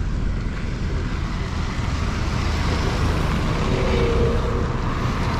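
Steady rumble of a motor vehicle on the move, engine and road noise together.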